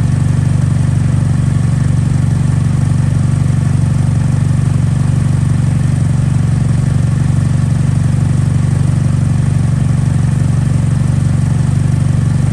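2008 Chevrolet Malibu engine idling steadily, run to show that it starts and runs.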